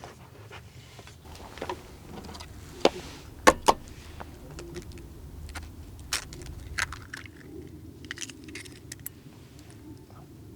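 Scattered light clinks and knocks of small hard objects being handled, the loudest three between about three and four seconds in, over a low steady rumble.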